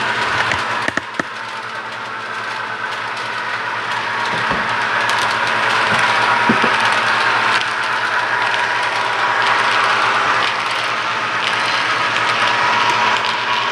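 HO scale model train running along the layout track: a steady whirring, rolling noise that grows louder about four seconds in, with a few clicks near the start.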